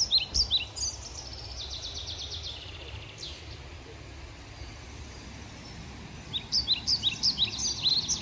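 A songbird singing: a run of quick high chirps at the start, a fast even trill a second or so later, and another run of chirps near the end. A steady low rumble runs beneath.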